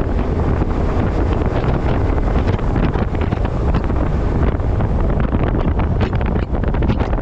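Heavy wind noise buffeting a microphone on a camera strapped to the front of a moving truck: a steady, loud rumbling rush.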